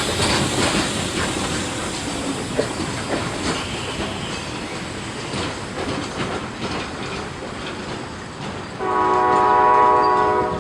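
Train rolling past with wheels clicking and clacking over the rails, then a locomotive horn sounds one long blast near the end.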